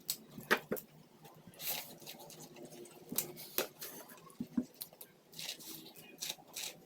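Boiled corn on the cob being bitten and chewed close to the microphone: irregular clicks and wet smacks.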